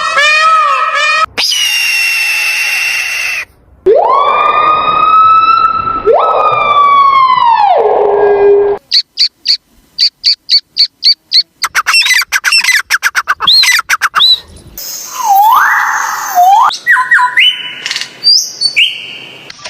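A string of different sound effects cut one after another: a warbling siren-like tone, a steady tone, two long wails that rise and then fall, a run of rapid high chirps, bird-like chirping, a wavering whistle, and a few stepped tones.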